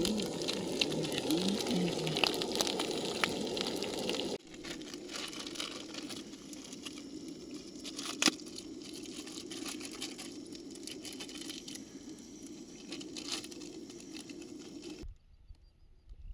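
Wood fire crackling: many sharp little pops over a steady rushing noise. The level drops abruptly about four seconds in, with one loud pop about eight seconds in, and the sound cuts off near the end.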